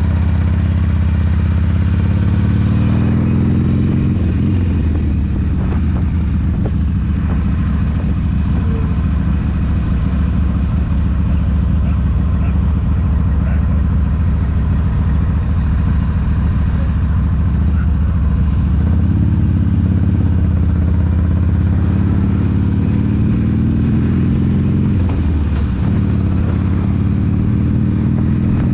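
Harley-Davidson V-twin motorcycle engine running under way, its low note shifting a few times as the throttle and gears change.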